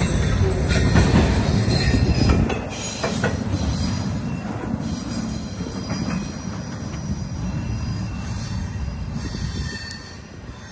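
Double-stack intermodal freight cars rolling past on steel wheels: a heavy rumble with sharp clacks over the rail joints and a thin high wheel squeal. About three seconds in the rumble begins to fade steadily as the end of the train pulls away.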